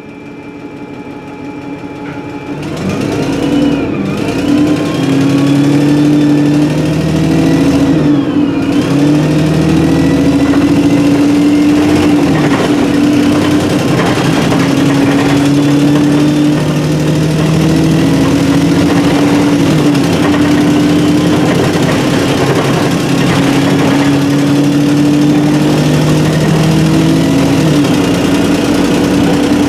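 Alexander Dennis Enviro300 bus with a Voith four-speed automatic gearbox pulling away and accelerating, fading in over the first few seconds. The engine note climbs and dips at the gear changes, with a rising gearbox whine. The exhaust is blown.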